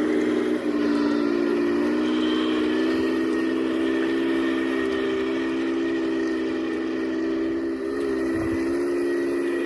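Heng Long Leopard 2A6 RC tank running as it drives, a steady whine whose pitch shifts slightly about half a second in and again near the end.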